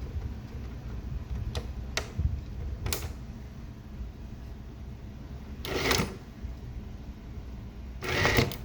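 Mechanical clicks and knocks from a Gemmy animated coffin prop, with two short rattles, one about six seconds in and a louder one near the end, over a low rumble.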